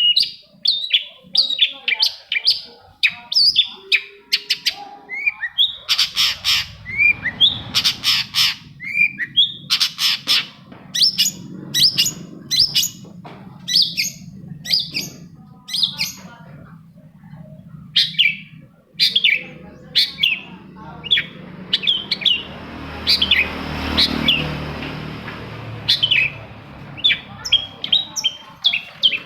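Long-tailed shrike (cendet) singing a fast, busy run of sharp chirps and harsh notes. A low rumble underneath starts a few seconds in, swells about four-fifths of the way through, then fades.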